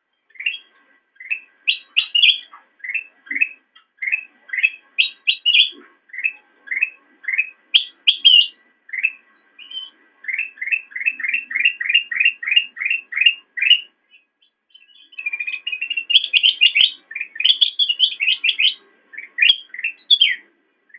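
Kutilang emas (a bulbul) singing: a string of short, bright rising chirps, breaking into a quick even run of about ten notes midway and a denser, faster tangle of notes a few seconds later.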